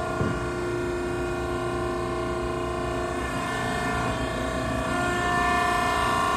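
Maren cardboard baler running a pressing cycle: the hydraulic pump and motor give a steady hum of several held tones, growing a little louder about five seconds in.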